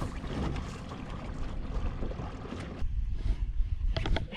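Wind buffeting the microphone as a low, gusting rumble, with a few quick clicks near the end.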